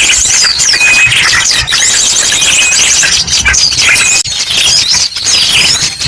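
Bird-lure recording: a loud, busy mix of many small birds chirping, trilling and whistling, with ashy drongo calls mixed in. Rapid high trills and short clear whistles overlap throughout.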